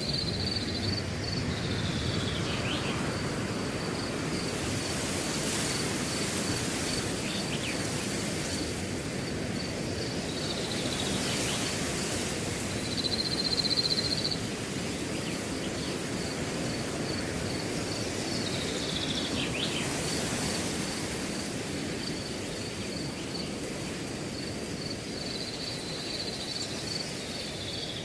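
Wind blowing through a grass field, a steady rustling that swells in a few gusts, with a cricket chirping in an even, high-pitched pulse throughout. A few short falling chirps cut in now and then.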